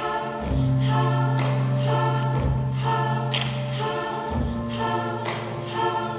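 Choral music: voices singing sustained chords over a long-held low note, with a soft accent about once a second.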